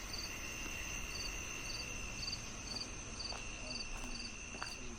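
Crickets and other insects calling: two steady high trills, with a pulsed chirp that repeats about twice a second.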